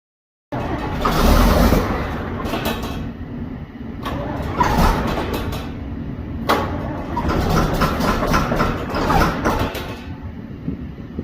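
John Deere diesel engine starting cold: after a brief silence it surges up loudly about a second in, then runs unevenly with irregular knocks and rattles.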